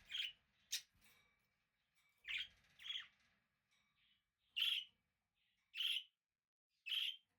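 Budgerigar giving about half a dozen short, sharp chirps spaced irregularly about a second apart, with one very brief click-like chirp just under a second in.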